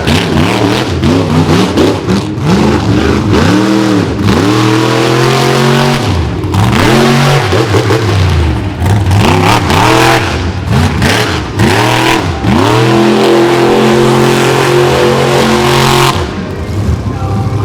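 Monster truck engine revving hard in repeated throttle bursts, its pitch climbing and falling about once a second. Near the end the revs are held high for about three seconds, then drop away.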